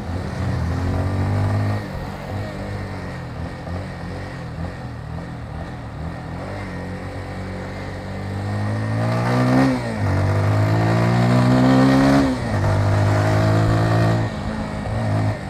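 Motorcycle engine ticking over at low revs, then accelerating about eight seconds in: the revs climb and drop back twice at the gear changes, then it holds a steady cruise.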